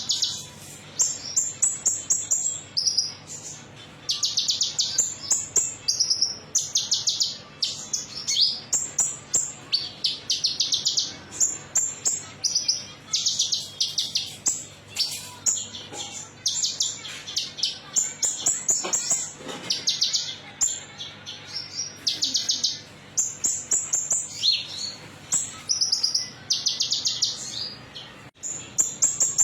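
Small songbird known to Indonesian bird keepers as the konin metalik, singing rapid high trilled chirps in short repeated bursts with brief pauses between them. It is a lure recording (pancingan) played to prompt caged birds to sing.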